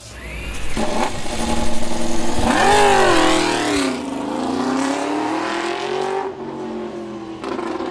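Racing motorcycle engine revving: the pitch jumps up and drops back about three seconds in, climbs slowly again, falls away, and settles on a steadier note near the end.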